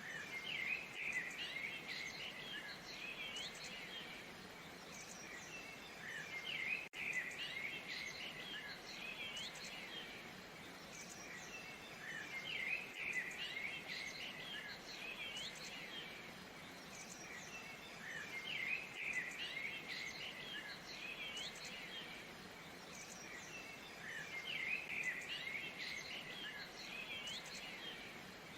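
Steady rush of falling water under songbirds chirping and whistling in bursts that come back about every six seconds.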